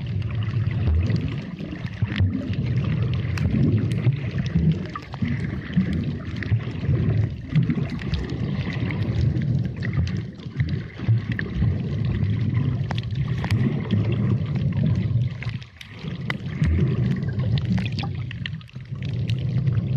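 Underwater sound picked up through a camera's waterproof housing: a low, uneven rumble and sloshing of moving water, with scattered faint clicks.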